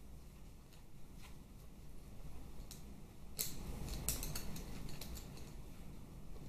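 Small clicks and clinks of hand tools and metal parts being handled on a workbench. A few scattered ticks, then a quick flurry of sharper clinks about halfway through.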